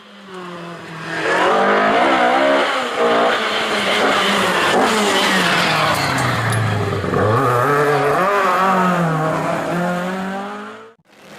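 Historic rally car's engine revving hard on a stage, its pitch climbing and falling with the gear changes; about seven seconds in it drops low as the car brakes, then rises again as it accelerates away. The sound swells up over the first second and cuts off abruptly near the end.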